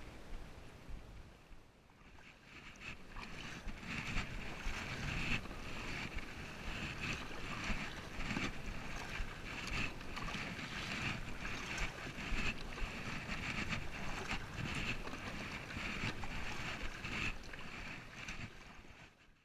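Water splashing and lapping around a kayak on the sea, a busy noise full of small irregular splashes. It cuts off suddenly at the end.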